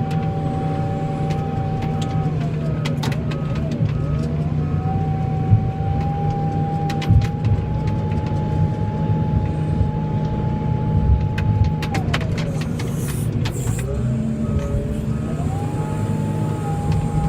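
Snowplow truck running steadily, heard from inside the cab, with a whine that drops in pitch twice and climbs back, and scattered clicks and knocks.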